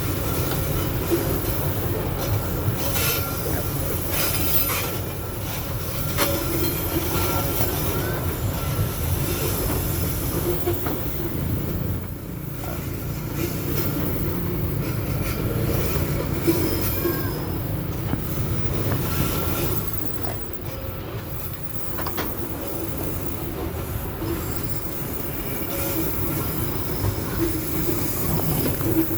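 Babaranjang coal train's long string of loaded coal wagons rolling past with a steady heavy rumble and rail clatter, the wheels giving short high squeals now and then.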